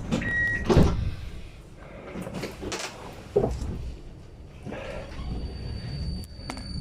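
Interior sound of a Vienna tram car: a low rumble throughout, a short steady beep at the start, then a loud knock like a door or fitting shutting, another knock about three seconds later, and light clatter. A steady high whine comes in after about five seconds.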